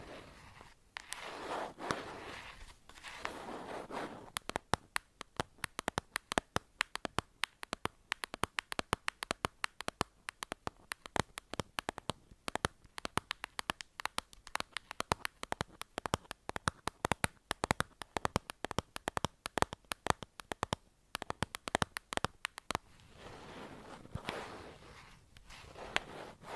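Close-miked ASMR trigger sounds: a few seconds of soft brushing swishes, then a long run of quick, sharp, irregular clicks and taps, and swishes again near the end.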